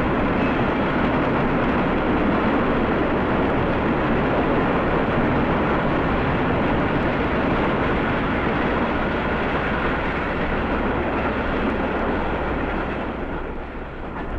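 Steam locomotive and train running past at speed, a dense, steady rush of exhaust and wheel noise that eases slightly near the end. The treble is dull, as on an old recording.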